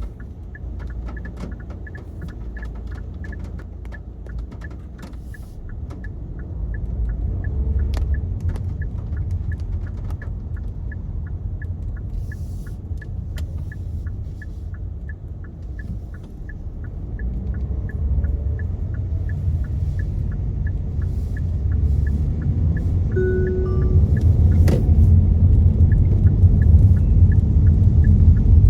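Car driving on wet roads, heard from inside the cabin: a steady low road and tyre rumble that grows louder in the second half. Through it runs a faint, regular light ticking about two or three times a second, with scattered sharp taps and clicks.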